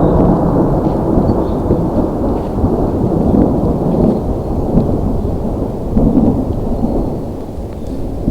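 Long rolling thunder rumble over heavy rain, easing slightly near the end.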